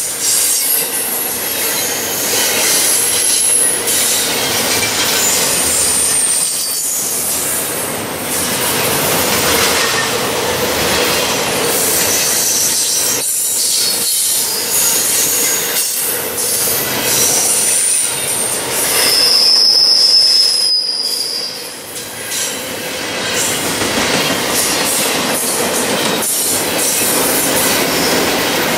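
Double-stack intermodal freight train rolling past at close range: a steady noise of steel wheels on the rails, with high-pitched wheel squeals coming and going. The loudest squeal comes about two-thirds of the way through.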